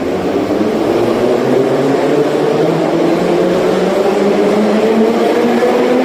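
Moscow metro train accelerating, its traction motors whining in several tones that climb steadily in pitch over the rumble of the train.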